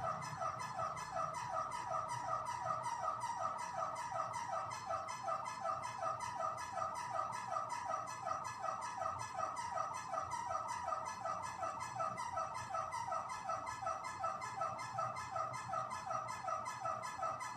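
Electric fan running with a rapid, steady, rhythmic squeak that repeats several times a second at an even pace, the strange noise it is making.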